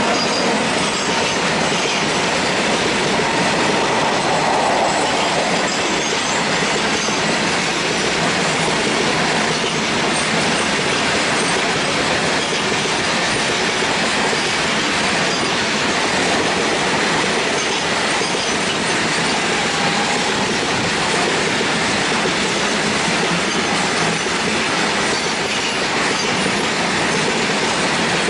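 Long freight train hauled by a WAG-9H electric locomotive rolling past, a steady, unbroken noise of wagon wheels on the rails.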